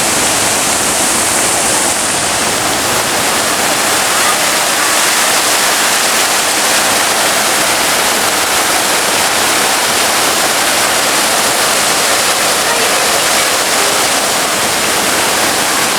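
Steady, loud rushing noise of falling water.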